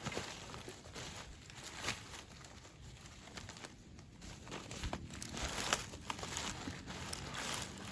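Irregular crinkling and rustling of dry material, with scattered sharp snaps.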